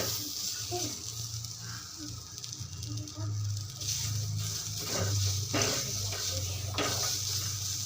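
Fresh corn kernels sizzling as they fry in a little oil in a pan, with a few short scrapes and knocks of a spoon stirring them.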